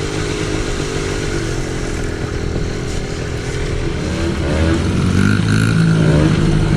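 Small off-road engine running under throttle with wind rushing past, revving up twice in the second half and getting louder.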